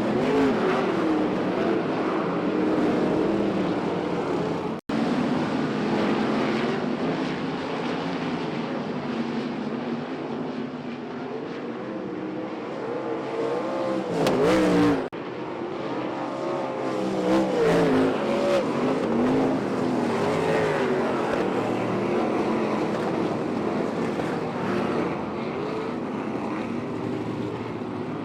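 Dirt track race cars running laps on a clay oval, their engines revving up and lifting off in turn as cars pass. The sound breaks off abruptly twice, about five and about fifteen seconds in.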